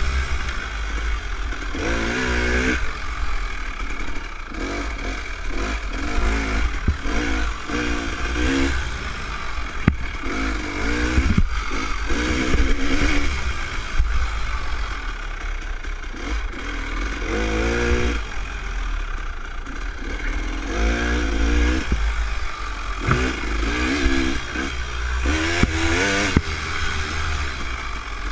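Dirt bike engine revving up and down again and again as it rides a motocross trail at low speed, its pitch climbing several times over, with a steady low rumble underneath.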